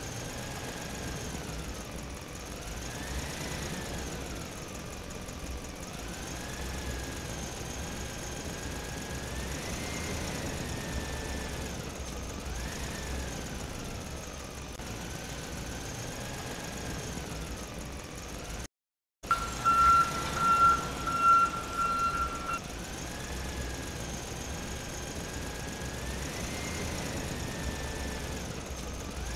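Tractor engine running steadily, its pitch rising and falling every few seconds. It cuts out for a moment partway through, then a steady high beep-like tone sounds for about three seconds along with a few louder thumps.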